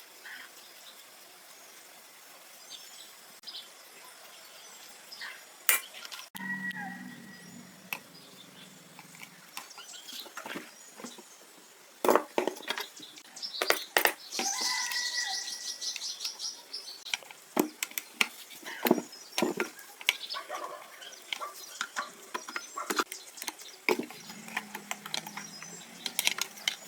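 Irregular clinks, taps and knocks of metal tools and small parts being handled, busier from about twelve seconds in.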